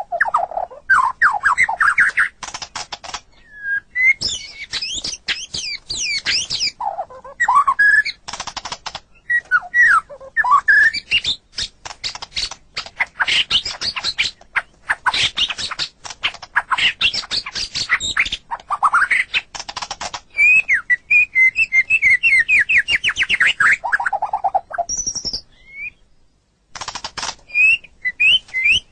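White-rumped shama (murai batu) singing a long, varied song of rapid trills, whistled notes and sweeping phrases, with a short pause near the end.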